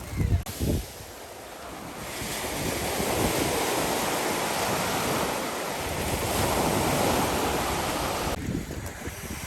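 Sea surf washing on the shore, with wind buffeting the microphone. The rush of the waves builds about two seconds in, holds steady, and cuts off abruptly near the end.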